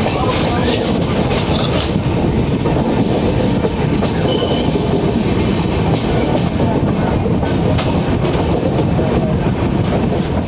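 A passenger train's coaches running along the track, heard from an open door or window: a steady loud rumble and rattle of wheels on rail, with the clickety-clack of wheels over rail joints and points.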